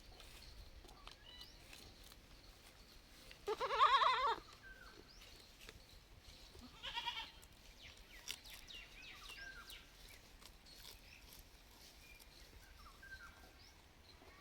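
A goat kid bleating twice: one loud, wavering bleat about four seconds in lasting about a second, then a shorter, fainter bleat about three seconds later. Faint bird chirps and small clicks in the background.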